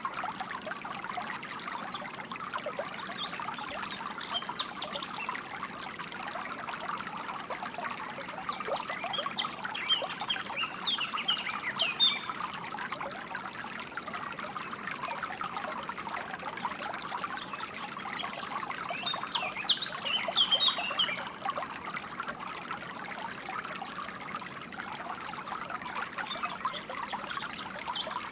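Water trickling and babbling steadily, as in a small stream. Songbirds chirp over it in three short spells of rapid high notes.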